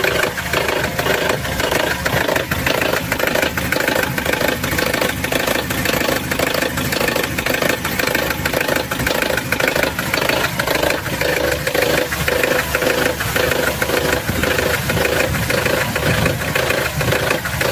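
Mercedes-Benz W202's M111 four-cylinder petrol engine idling, with a regular knock repeating a few times a second. The owner was told it came from the hydraulic lifters, but it persists after a new oil pump; he places it low, near the second piston, not in the cylinder head.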